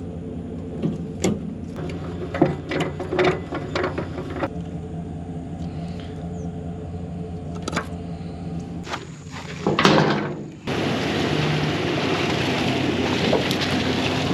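Truck engine running steadily with several sharp clanks and knocks over it. About ten seconds in there is a louder swell, then the sound switches suddenly to a steady rushing noise, like driving with wind on the microphone.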